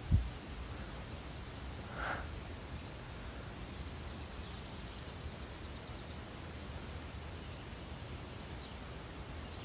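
Outdoor rural ambience with a high, rapid trill repeated three times, each lasting about two seconds, with a short low thump at the very start and a brief call about two seconds in.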